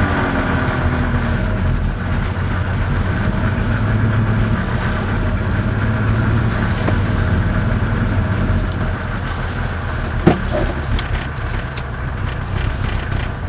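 Suzuki Fronte LC20's two-stroke engine idling steadily, with one sharp click about ten seconds in.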